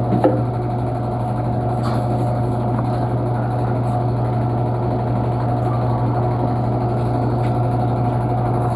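Panasonic washing machine running with a steady motor drone and hum, with a couple of faint clicks just at the start.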